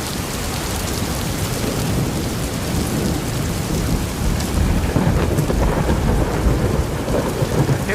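Heavy rain falling steadily, with a low rumble of thunder that grows louder about five seconds in.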